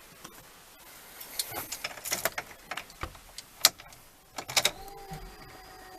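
Clicks, knocks and rustling of someone settling into a pickup truck's cab and handling the keys. About five seconds in, a steady electronic tone starts and holds, the kind of tone the dash gives when the key is turned on before the engine is started.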